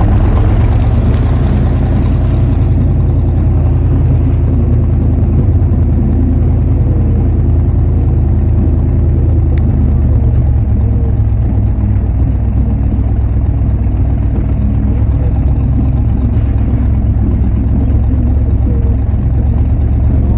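Snow truck engine running steadily, a loud low rumble that holds without big revs, with more hiss in the first two seconds.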